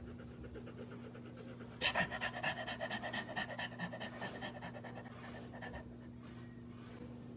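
A dog panting rapidly, starting about two seconds in and fading out after about four seconds, over a steady low hum.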